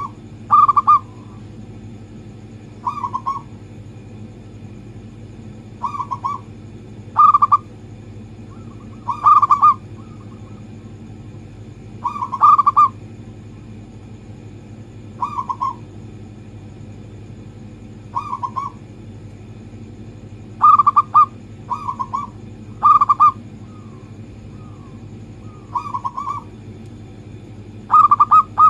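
Zebra dove (perkutut) singing its cooing song: short phrases of quick coos repeated every two to three seconds. Near the end a faster run of coos begins.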